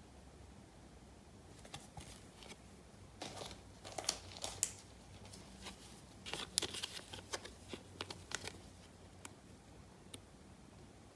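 Trading-card packaging being handled and opened by hand: irregular crinkling, tearing and sharp clicks of wrapper and cardboard, busiest in the middle few seconds.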